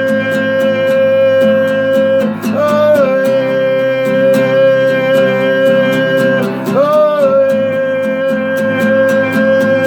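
Music: acoustic guitar strummed in a steady rhythm of about three strokes a second under long held lead notes, each sliding up into pitch, with new notes about two and a half and seven seconds in; an instrumental break in the song.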